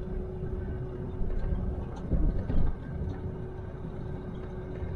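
Truck engine running with a steady low rumble and a constant hum.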